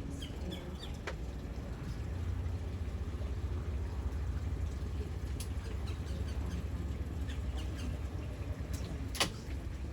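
Tour boat's motor running with a steady low rumble, with scattered faint high chirps and a sharp click about nine seconds in.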